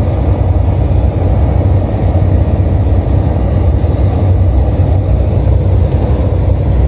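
Heavy truck's engine and road noise heard inside the cab while driving, a steady low rumble.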